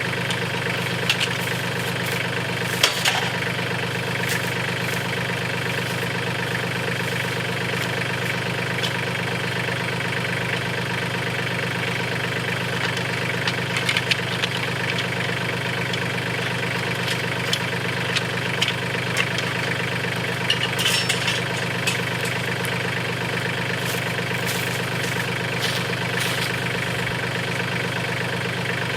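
Mahindra compact farm tractor's diesel engine running steadily at a low, even speed, with a few short sharp knocks and clanks here and there.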